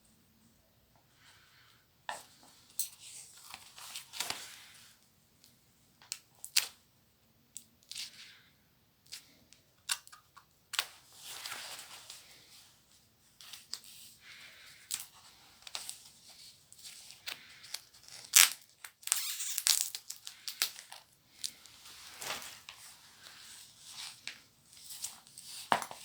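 Paper packaging of a book parcel being torn open and crinkled, with irregular sharp clicks and rustles. After a quiet first two seconds it goes on in uneven bursts, the loudest tearing near the end.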